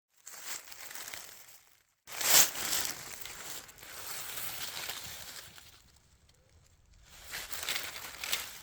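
Dry forest-floor leaves and undergrowth rustling and crunching in irregular stretches. The sound cuts out completely for a moment about two seconds in, and its loudest crunch follows right after.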